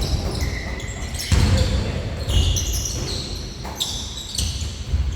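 A basketball bouncing on a gym floor in a game, with several sharp thuds, mixed with short high squeaks of sneakers on the court.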